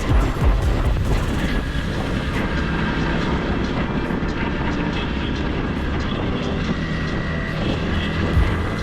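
Motorcycle on the move: steady rumbling wind and road noise over the running engine.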